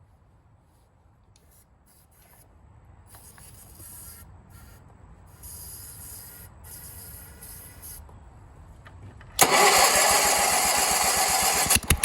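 A few short hisses of aerosol starting fluid being sprayed into the engine, then, about nine seconds in, the Sears garden tractor's twin-cylinder engine starts suddenly and runs loud on the starting fluid for about two and a half seconds, cutting out near the end.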